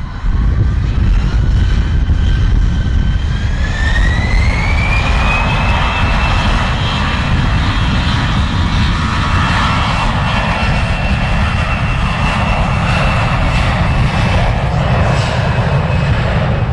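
Airbus A320neo's turbofan engines spooling up. A whine rises over about five seconds and then holds at a steady pitch over a heavy, continuous rumble, as when thrust is set for the take-off roll.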